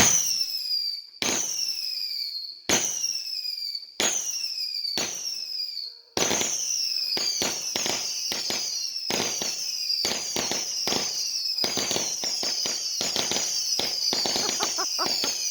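Fireworks firing shot after shot, each launch a sharp crack followed by a high whistle that falls in pitch for about a second. The first five come about a second and a half apart, then about six seconds in they speed up into a rapid overlapping barrage of cracks and whistles.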